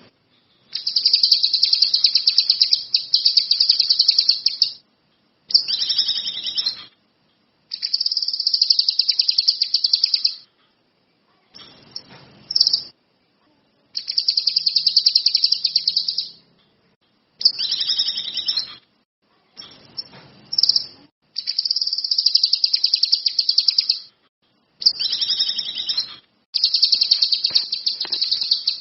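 A kinoi bird singing in a series of rapid, high-pitched, buzzy trills. Each trill lasts one to four seconds, with short pauses and a couple of brief shorter phrases in between.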